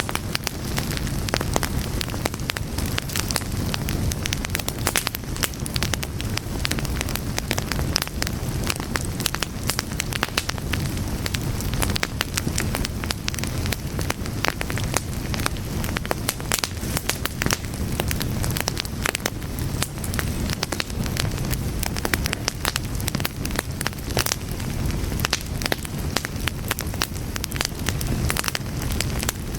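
Fire crackling steadily: dense, irregular pops and snaps over a low, even rumble of flames.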